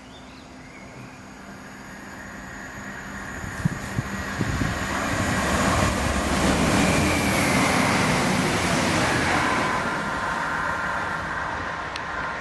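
Chiltern Railways diesel multiple unit passing along the platform: engine and wheel-on-rail noise builds as it approaches, is loudest around halfway through, then fades as it draws away. A few sharp clicks come as it nears, and a tone drops in pitch as it goes by.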